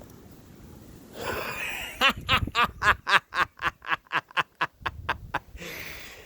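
A man laughing: a long breath in, then a fast run of short laughs, about four or five a second, for around three seconds, ending in a breathy exhale.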